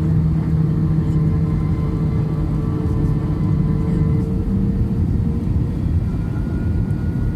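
Airplane engine noise: a steady low rumble with a held hum, joined by a higher whine about six seconds in.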